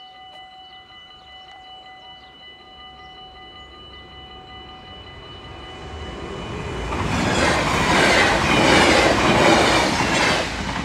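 Level-crossing warning bells ring steadily with the barriers down. An NS double-decker electric passenger train then approaches from about halfway through and passes through the crossing with a loud rush of wheels on rail, easing off just at the end.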